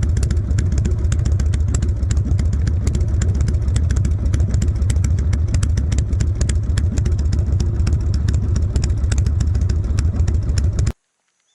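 Harley-Davidson V-twin motorcycle engine running steadily under way, a heavy low rumble, which cuts off suddenly near the end.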